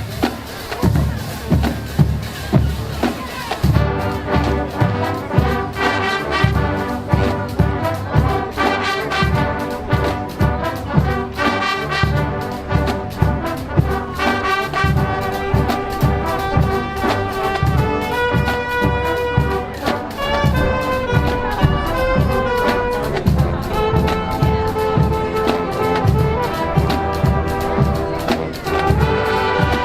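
Marching band playing: drumline beating a steady pulse alone, then the brass section comes in with loud chords and a melody about four seconds in, over the continuing drums.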